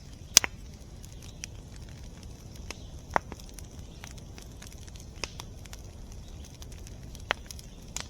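Scattered sharp clicks and crackles over a steady low rumble, the loudest about half a second in.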